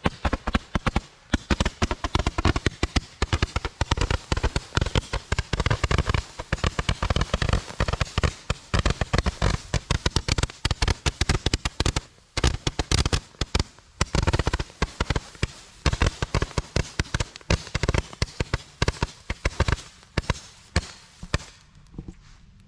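A string of firecrackers going off: a rapid, irregular barrage of sharp bangs, many a second, that thins out and stops near the end.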